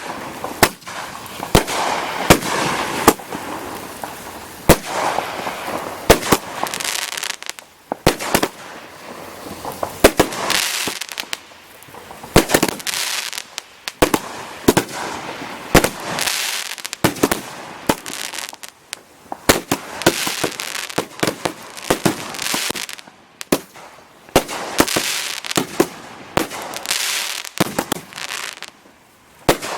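Consumer multi-shot firework cakes firing: sharp bangs and pops come irregularly, sometimes several a second, between stretches of hissing crackle.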